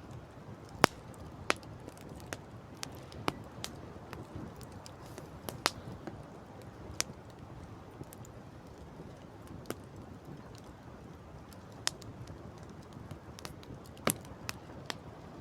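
Wood campfire crackling: sharp pops and snaps at irregular intervals, a few of them much louder, over a soft steady rushing background.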